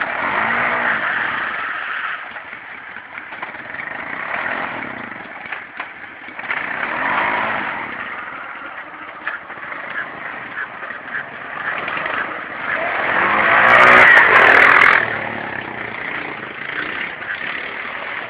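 Hopped-up racing lawn mower engines revving hard in repeated surges, rising and falling in pitch, with the loudest rev about three-quarters of the way through.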